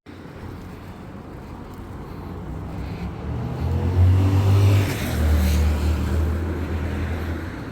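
A motor vehicle running close by, its engine hum and road noise building to a peak about four seconds in, with the engine note dropping a step in pitch soon after, then easing off.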